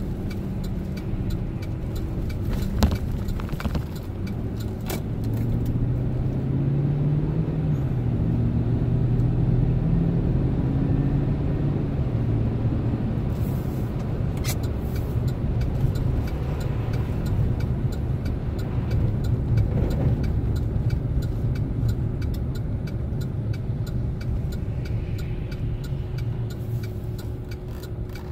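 Chevrolet Silverado pickup driving, heard from inside the cab: a steady engine and road rumble. The engine pitch rises about five seconds in and then settles back. A sharp knock comes near three seconds in, and small clicks are scattered throughout.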